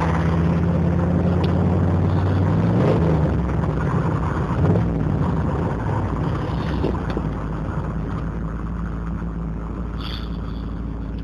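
TVR Wedge's Rover V8 engine burbling as the car is driven, heard from on board. The engine note is steady at first, wavers as the revs change about three to five seconds in, then settles lower and quieter as the car slows.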